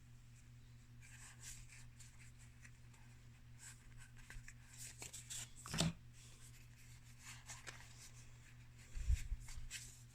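Faint rustling and light clicks of trading cards being handled and slid across one another, over a steady low hum. A sharper tap comes near six seconds and a soft low thump about nine seconds in.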